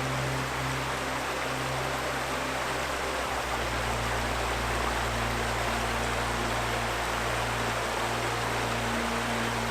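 Steady rush of a flowing river, with soft relaxing music underneath: low held notes that change about three seconds in.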